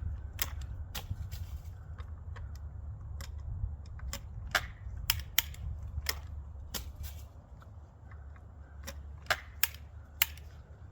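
Sharp metallic clicks and clacks at irregular intervals, well over a dozen, from a shotgun being worked with dummy shells during reload practice. A low steady rumble runs underneath.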